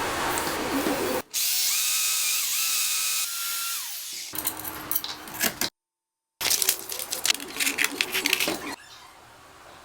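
A small electric power tool runs with a steady high whine for about two seconds, then winds down as it is switched off. Clicks and scraping on metal follow, broken by a brief cut to silence.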